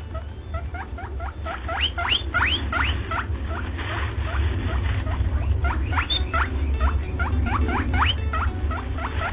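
A small animal squeaking rapidly: a long run of short, high squeaks, each rising in pitch, several a second, over a steady low hum.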